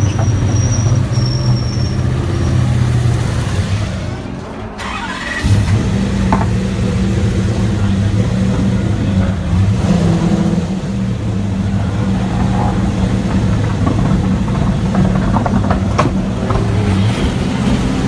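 The 5-litre V8 race engine of a Nissan Altima V8 Supercar running loud and steady. It dips briefly about four to five seconds in, then pulls steadily again.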